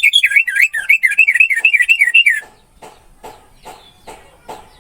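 Orange-headed thrush (anis merah) singing a quick phrase of repeated, up-and-down warbling notes, about five a second, for roughly two and a half seconds. It then breaks off, leaving faint clicks, and the next phrase begins right at the end.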